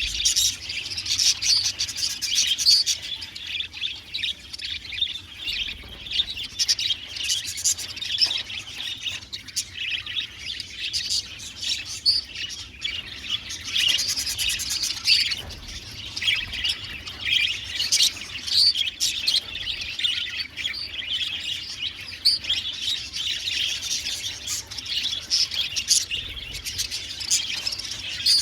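A group of budgerigars chirping and warbling together, a dense, continuous flock chatter.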